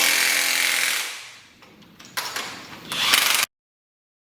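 Handheld power tool running: one long run with a motor whine that winds down after about a second, then two short bursts. The sound cuts off suddenly about three and a half seconds in.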